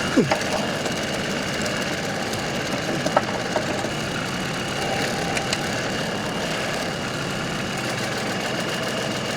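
LS XR3140H compact tractor's diesel engine idling steadily. A short falling whine comes near the start, and a few sharp clicks fall about a second, three seconds and five seconds in.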